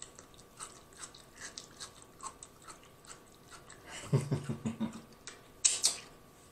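Close-up chewing of crunchy fried food, with crisp crunches and wet mouth clicks about three to four a second, made for an ASMR moment. About four seconds in a short hummed "mm" joins the chewing, and a louder sharp click comes near the end.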